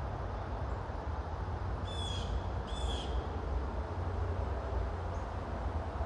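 A bird gives two short calls about a second apart, each sliding down in pitch, over a steady low rumble of distant highway traffic.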